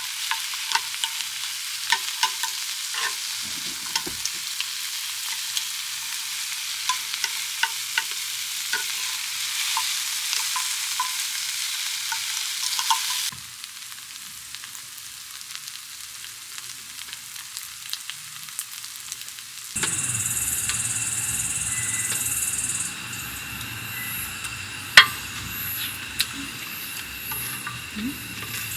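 Food frying on a hot griddle, sizzling steadily with many small crackling pops. About halfway through the sizzle drops away, and later a different steady hiss comes in with one sharp click.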